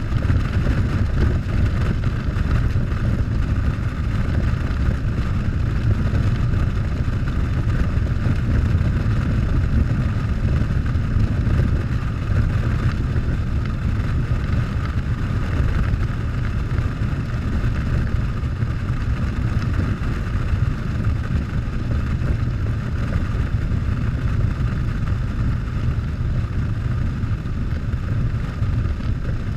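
Harley-Davidson Softail's V-twin engine running steadily while riding, mixed with wind and road noise on the camera microphone.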